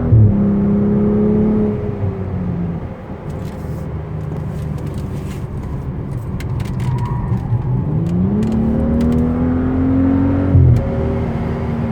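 2014 BMW 335i's turbocharged 3.0-litre inline-six running under way. It holds steady, then eases off about two seconds in. From about eight seconds the revs climb steadily under acceleration, and near eleven seconds the pitch drops suddenly at a gear change.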